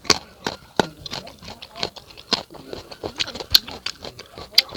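Close-up chewing of crisp unripe fruit: an irregular run of sharp, loud crunches, a few each second.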